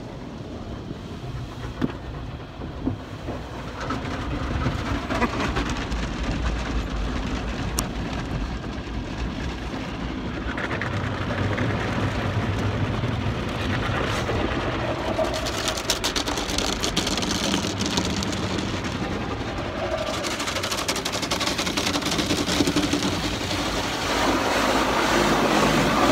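Automatic drive-through car wash heard from inside the car: a steady rumble and hiss of the wash machinery and water spray on the body, growing louder toward the end.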